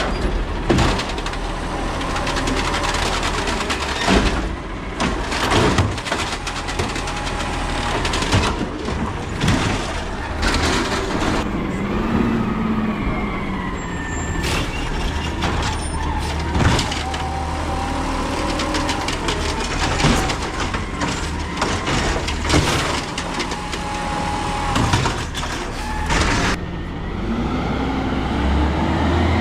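Peterbilt 320 garbage truck with an Amrep automated side-loader body working its route. The diesel engine runs throughout and swells at times with gliding whines from the hydraulics, broken by repeated sharp bangs as the arm slams cans and the body works.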